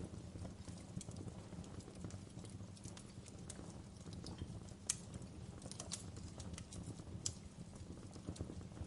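Wood fire burning in a fireplace: a low steady rumble of flames with irregular sharp crackles and pops from the logs, a few louder pops about five, six and seven seconds in.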